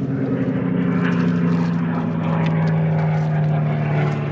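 Propeller aircraft passing overhead, a steady engine drone whose pitch sinks slightly as it goes.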